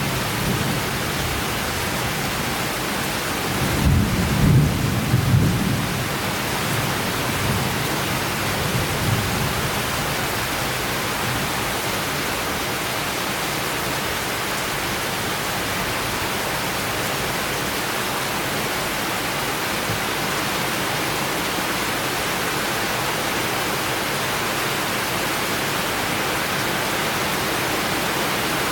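Steady summer rain falling hard, with a low roll of thunder about four seconds in that lasts a couple of seconds, and a fainter rumble around nine seconds.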